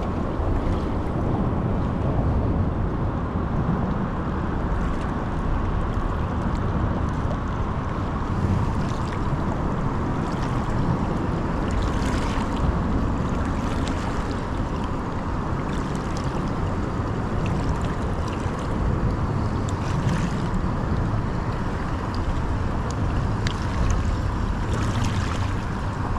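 Steady outdoor noise: wind rumbling on the microphone over a wash of river water, with a few faint scattered ticks.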